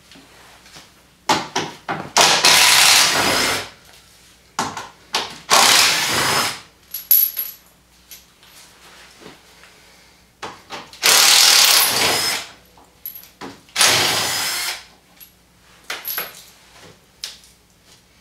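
Power drill spinning out the skid plate's mounting bolts in four bursts of about a second each, with small clinks of metal parts between them.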